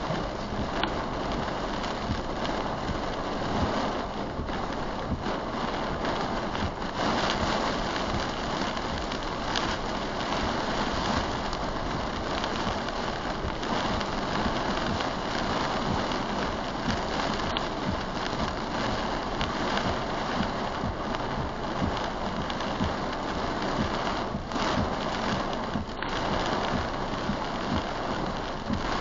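Heavy rain beating steadily on a moving vehicle's windshield and body, heard from inside the cabin while driving.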